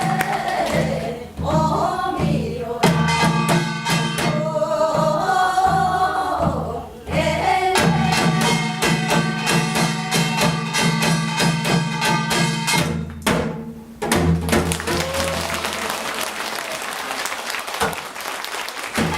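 Korean binari, a folk blessing song, sung over fast, dense Korean traditional percussion and a steady low drone. The texture thins out after about fourteen seconds.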